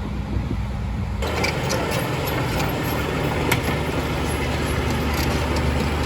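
Heavy diesel construction machinery running steadily with a low drone. About a second in, a broad rushing noise with scattered clicks suddenly joins it.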